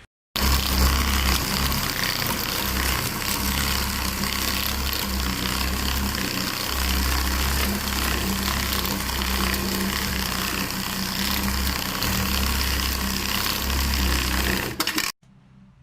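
A machine running steadily and loudly, with a deep hum that swells and dips unevenly under a dense rushing noise. It starts suddenly just after the beginning and cuts off sharply near the end.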